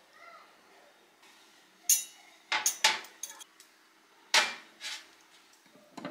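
A string of sharp knocks and clatters of hard objects being handled and set down, about seven in all, coming irregularly from about two seconds in, over a faint steady hum.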